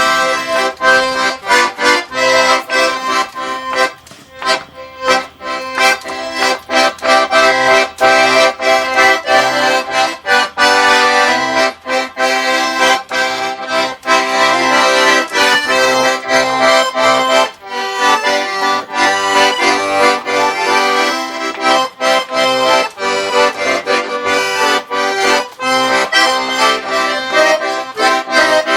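An instrumental folk tune played live, with no singing: a melody over a steady beat of low bass notes.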